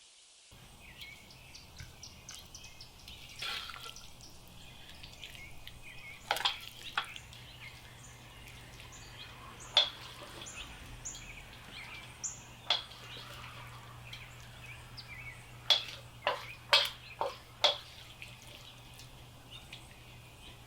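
Small birds chirping in short high calls, with scattered sharp clicks and taps, several in a quick cluster near the end, over a low steady hum.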